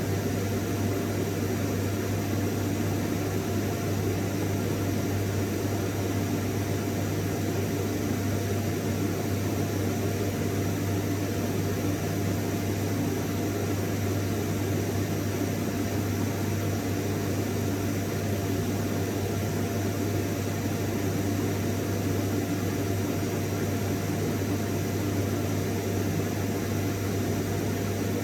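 Vacuum cleaner running steadily and without change: a rush of air over a low hum, with a faint steady whine.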